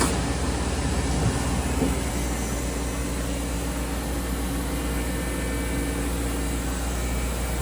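Steady mechanical hum and hiss of running machinery, with a low drone underneath and a faint steady whine. There are a couple of light knocks in the first two seconds.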